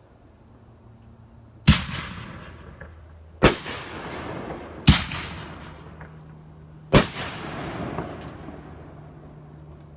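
Fireworks going off: four loud booms spaced about one and a half to two seconds apart, each trailing off in a long echo, over a faint steady low hum.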